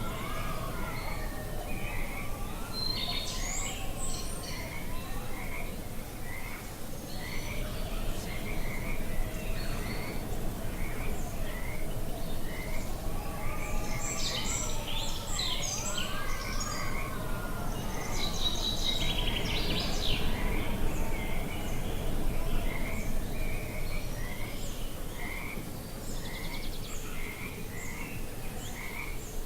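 Outdoor nature ambience: a short chirping call repeating about once a second, with bursts of bird calls, slow wavering tones and a low wind-like rumble underneath.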